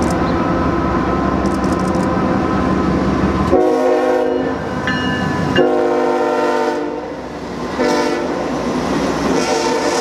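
Freight diesel locomotive passing close by with a loud steady rumble, then its multi-chime air horn sounding a chord in the grade-crossing pattern: a long blast, a longer one, a short one, and another long blast starting near the end.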